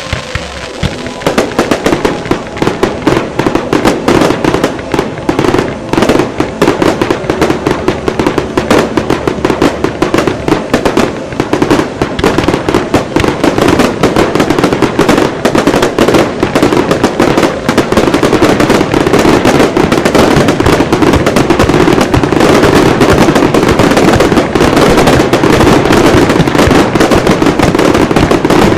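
Dense barrage of firecrackers going off, the bangs coming faster and faster until they merge into one continuous din in the second half.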